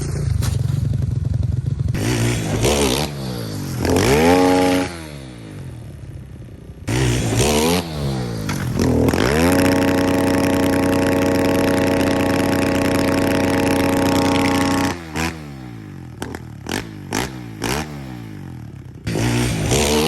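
Pit bike engine revving hard: it climbs in pitch twice, holds steady at high revs for about five seconds, then drops back to a low idle broken by a few quick throttle blips.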